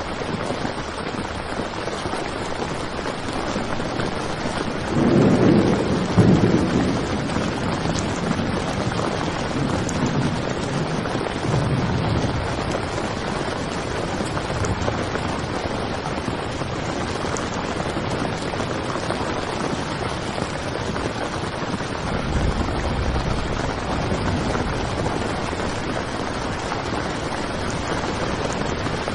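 Heavy rain pattering steadily on a tent, with a loud rumble of thunder about five seconds in and fainter rumbles later on.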